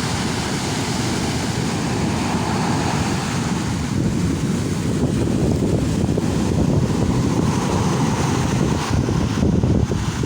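Strong wind blowing against the microphone with a heavy, steady rumble, over the wash of high-tide waves surging in.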